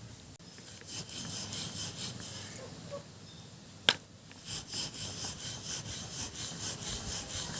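Rolling pin rolling out layered roti dough on a flour-dusted board, a repeated back-and-forth rubbing, with one sharp click about four seconds in.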